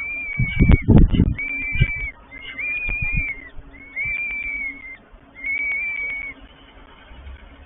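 Peregrine falcon calls at the nest: five drawn-out, high calls of steady pitch, each just under a second, with short gaps between them. Wind buffets the microphone in low rumbles during the first two seconds.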